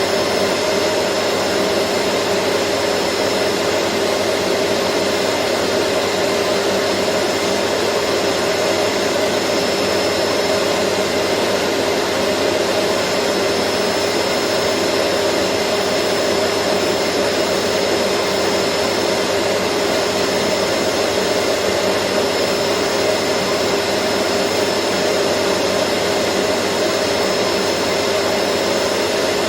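Vacuum cleaner running steadily: an even rushing noise with a constant motor hum and a thin high whine, unchanging throughout.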